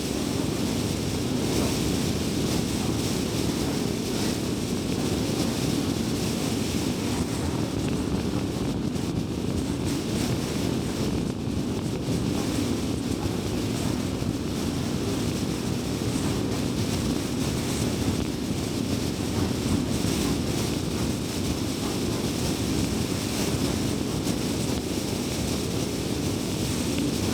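Car driving at steady speed: continuous road, tyre and engine noise with a low rumble, without pauses.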